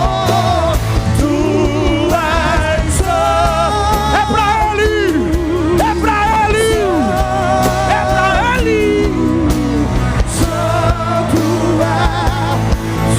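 Worship song with a solo voice singing a wavering, vibrato-laden melody over a band with bass, keyboard and drums.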